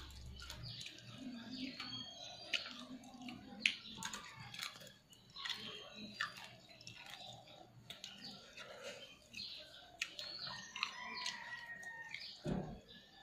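Close-up eating sounds: chewing and wet mouth smacks, with fingers mixing rice on a steel plate, making many short clicks. Birds chirp in the background.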